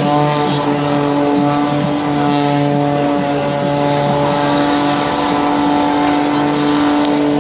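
Propeller aerobatic plane's engine running at a steady, even pitch.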